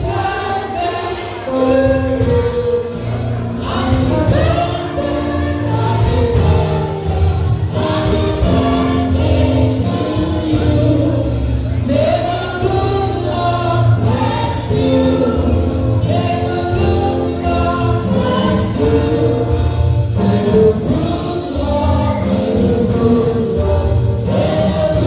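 Congregation and choir singing a gospel praise song over a live band with a steady beat and bass.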